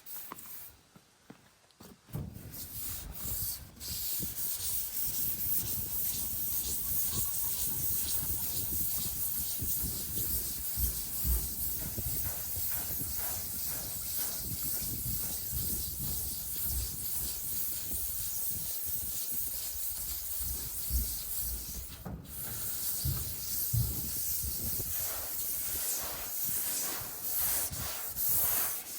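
Steady rubbing and scrubbing on the truck's painted body panel, a rough hiss of repeated strokes, as the top paint is worked off to uncover old lettering underneath. It starts about two seconds in.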